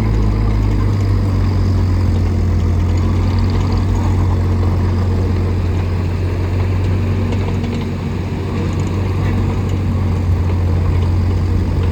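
Bobcat E35i mini excavator's diesel engine running steadily at a low, even pitch.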